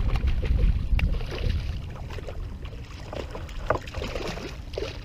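Low wind rumble on the microphone that eases after about two seconds, then scattered light knocks and clicks of gear being handled on a fishing kayak.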